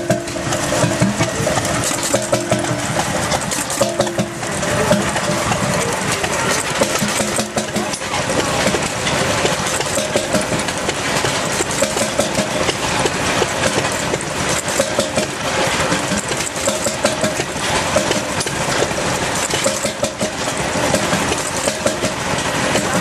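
Jelbart 6 HP oil engine running steadily with an even beat of firing strokes.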